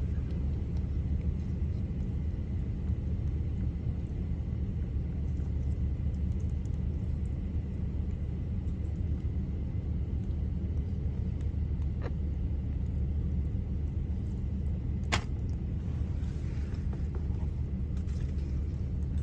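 Steady low rumble of an idling vehicle, heard from inside the cab, with a faint click about twelve seconds in and a sharp click about fifteen seconds in.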